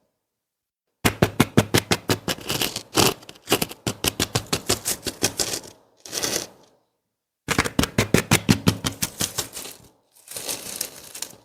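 Rapid series of sharp clicks or taps, about six a second, in three bursts broken by sudden cuts to silence.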